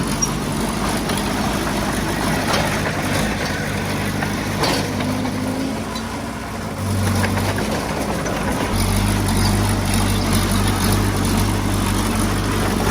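A heavy machine's diesel engine running, easing off a little mid-way and then running harder again from about nine seconds in. There are a couple of sharp knocks early on.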